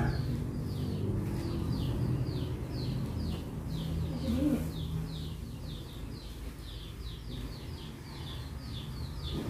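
A small bird chirping over and over, short falling chirps about three a second, over a low background rumble.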